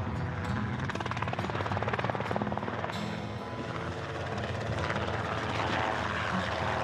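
Helicopter rotor blades beating with a fast, steady chop, over background music.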